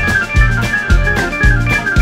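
Live rock band playing an instrumental passage: Rhodes electric piano chords over electric bass and drum kit, the kick drum landing about twice a second with cymbals on top.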